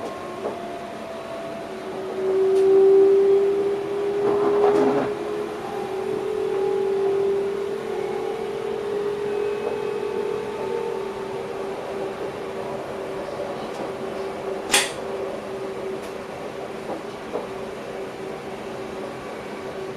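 Electric train heard inside the driver's cab: a steady running hum with one clear tone that swells for several seconds near the start, then settles. A single sharp click comes about fifteen seconds in.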